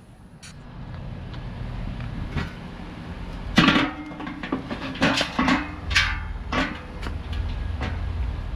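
A series of knocks and clanks from metal cooker parts being handled, the loudest about three and a half seconds in with a short ring, with a low rumble building in the second half.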